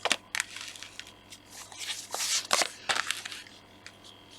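Tarot cards being handled and laid out: a few sharp card snaps and slides near the start and around three seconds in, with a longer rustle of cards about two seconds in.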